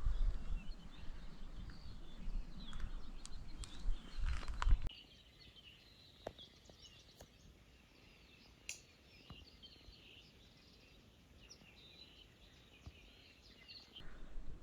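Faint chirping of small birds. For the first five seconds or so a low rumbling noise lies under it, then cuts off suddenly.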